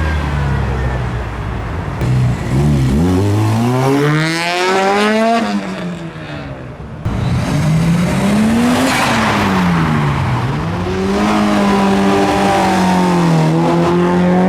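A car engine revving hard as the car pulls away. The pitch climbs and drops three times, then holds steady near the end.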